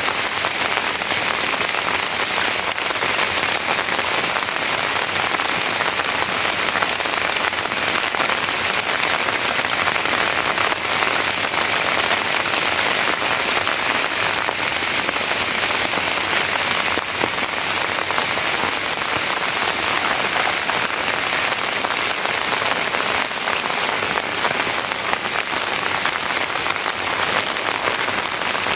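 Steady heavy rain falling and pattering on surfaces, a constant dense hiss of drops.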